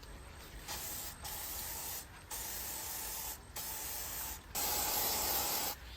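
Insecticide spray hissing out of a nozzle in several bursts with short gaps, the last burst the loudest.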